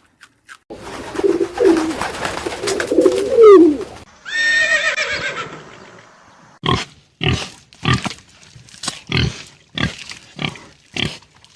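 Animal calls from several different short clips in succession: gliding calls over a noisy background, then a single pitched, gliding call, then a run of about ten short calls, roughly two a second.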